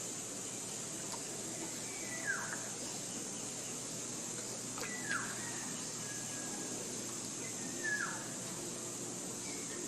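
A bird calls three times, about three seconds apart, each a short call sliding downward in pitch. Under it runs a steady high-pitched hiss of forest ambience.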